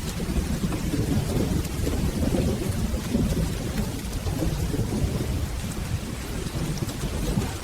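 Steady rain with a continuous low rumble of rolling thunder.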